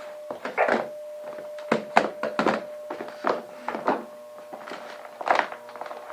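Irregular knocks and thunks, about a dozen in six seconds, over a faint steady tone.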